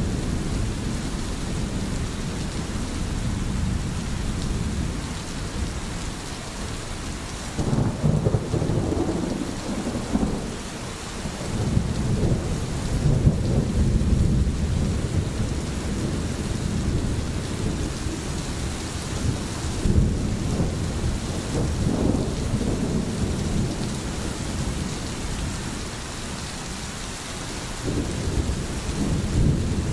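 Steady rain with low rolling thunder that swells and fades several times, most strongly about a quarter of the way in and again around the middle.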